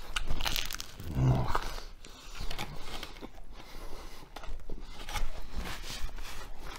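A person chewing a mouthful of sandwich close to the microphone: wet, irregular chewing and mouth noises with breaths through the nose, and a short hummed "mm" about a second in.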